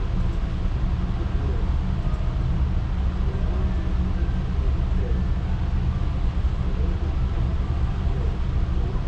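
Steady low rumble of a car ferry underway, with a fainter hiss above it.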